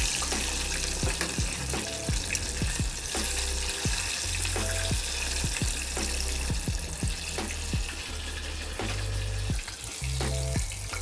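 A breaded chicken thigh sizzling steadily as it deep-fries in hot oil, with its crust formed and the piece being turned. Soft background music with changing bass notes plays along.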